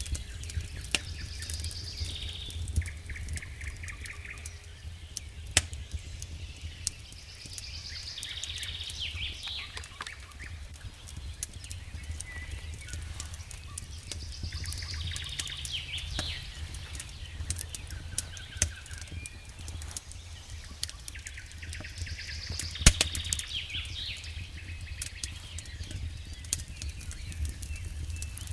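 Wood fire crackling with scattered sharp pops, over a steady low rumble, while a songbird repeats a short song phrase about every seven seconds.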